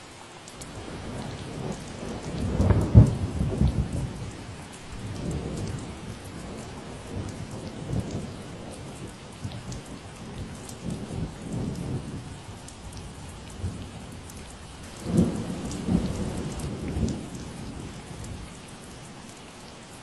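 Steady rain falling, with rolling thunder rumbling in underneath. The loudest peal comes about three seconds in, and a second burst of rumbles follows about fifteen seconds in before fading.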